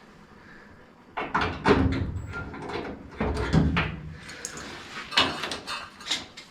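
Handling noises from the furnace work: scraping, sliding and clunking of metal parts starting about a second in, then a run of sharp clicks and knocks.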